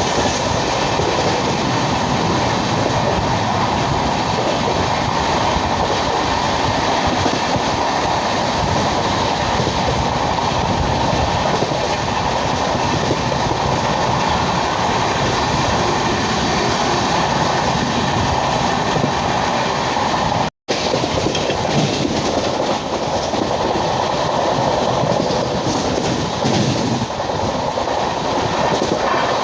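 Azad Hind Express running on the rails with its LHB coaches, a steady, loud rumble of wheels and track noise. The sound cuts out for an instant about two-thirds of the way through.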